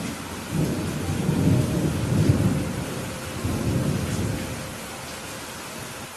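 Heavy rain falling as a steady hiss, with a roll of thunder rumbling in about half a second in, loudest around two seconds and dying away by about five seconds.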